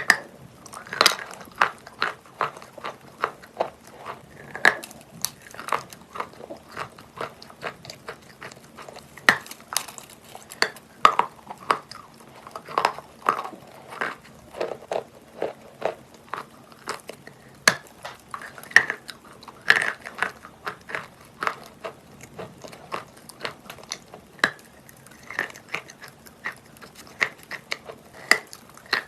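Close-up biting and chewing of wet natural Valuyki chalk: a dense, irregular run of sharp crunches and crackles, over a faint steady hum.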